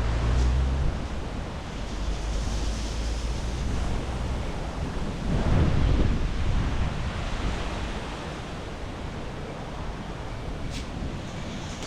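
Storm wind gusting, with low rumbling buffeting on the microphone; a gust swells about halfway through.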